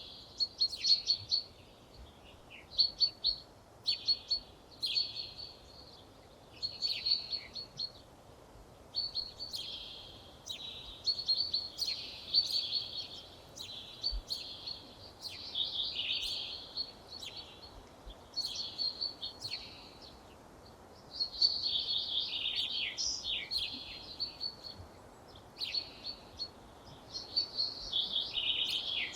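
Songbirds singing in short, high, quickly repeated phrases with brief pauses between them, over a faint background hiss.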